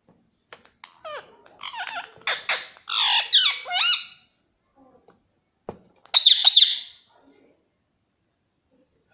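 Indian ringneck parrot calling: a run of high, pitch-swooping squawks and chatter for a few seconds, then, after a short knock, a loud shrill screech lasting about a second.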